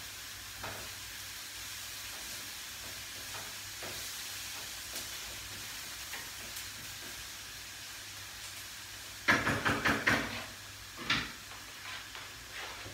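Grated carrot and onion frying in oil in a frying pan, giving a steady soft sizzle as they are stirred. About nine seconds in comes a short run of loud clattering knocks, then one more knock a second later.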